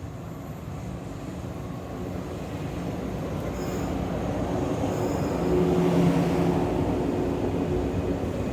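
A train running past on the rails, getting louder as it approaches and at its loudest about six seconds in, with a steady rumble and low hum.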